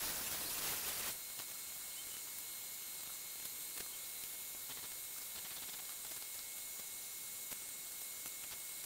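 Welding arc hissing and sizzling steadily with faint scattered crackles while a thin sheet-metal panel is welded in. It is a little louder in the first second.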